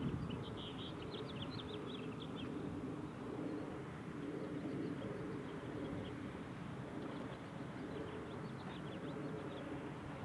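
Small birds chirping in quick runs of short, high notes, once at the start and again after about seven seconds, over a steady low background rumble.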